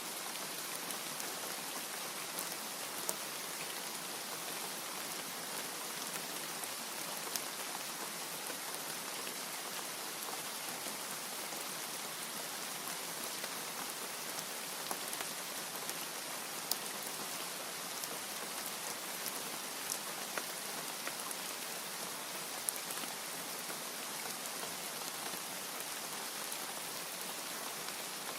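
Steady rain falling, with a few sharper drop taps standing out now and then.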